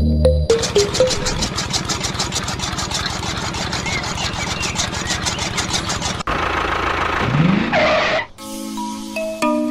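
Miniature chaff cutter's small motor whirring, with a rapid, even ticking of its spinning blade wheel as it chops leaves. It cuts off suddenly about six seconds in, and a short rising, revving whine follows. Mallet-percussion music comes in near the end.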